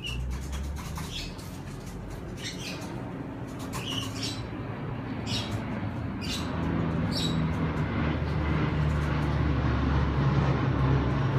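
Short, high bird chirps come about once a second for the first seven seconds or so. Underneath them, a vehicle engine's low rumble grows steadily louder toward the end.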